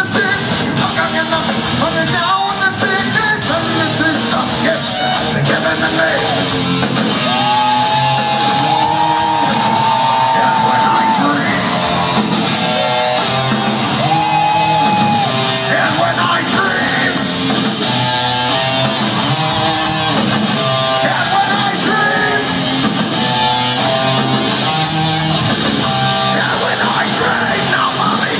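Heavy metal band playing live: distorted electric guitars, bass and drums, with yelled vocals over them. Long held high notes sound a quarter of the way in and again near the middle.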